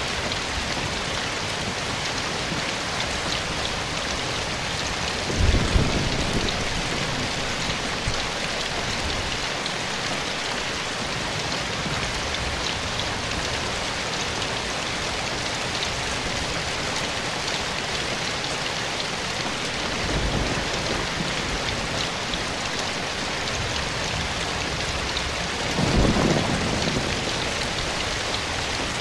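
Steady rain falling, an even hiss of drops. Short low rumbles swell up about five seconds in, faintly around twenty seconds, and again near the end.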